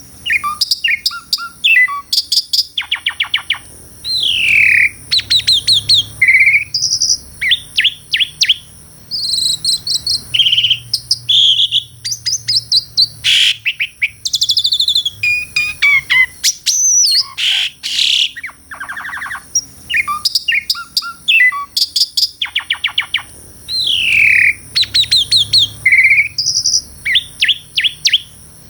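Pied starling (jalak suren) singing a long, varied song of rapid chattering trills, clicks and whistled slurs, with a steady high-pitched buzz behind it.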